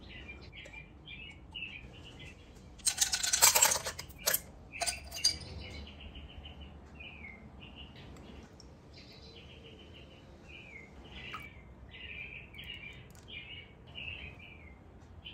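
Small birds chirping and twittering steadily, many short quick calls. About three seconds in, a loud burst of rapid clinking lasts about a second, followed by two shorter clinks.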